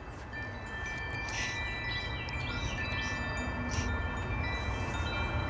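Metal wind chimes being struck by gusts, with many overlapping bell-like tones ringing on and fresh strikes every second or so. Wind rumbles on the microphone underneath.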